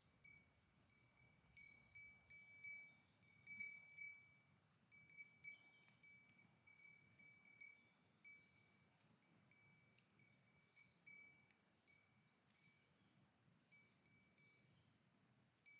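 Bell on a grazing cow clinking irregularly, each clink leaving a short metallic ring at the same pitch, faint.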